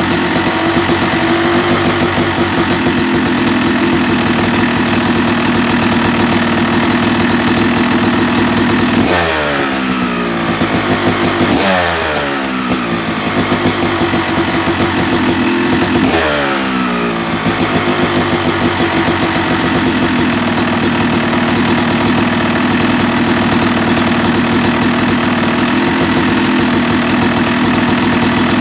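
Yamaha YZ250 two-stroke motocross engine, rebuilt to 270cc, running steadily at a fast warm-up idle. About a third of the way in it is blipped three times in quick succession, each time the revs falling back down to idle.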